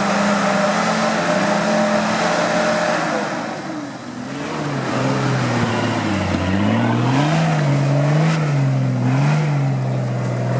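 Off-road vehicle's engine running under load, steady at first, then revving up and down repeatedly from about halfway through as the throttle is worked.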